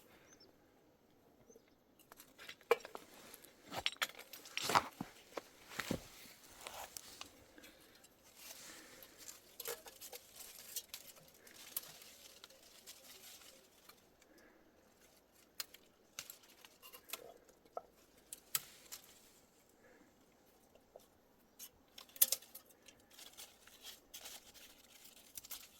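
Scattered small clicks, knocks and clinks of objects being handled, irregular and unrhythmic. The loudest knocks come about five seconds in and again about 22 seconds in.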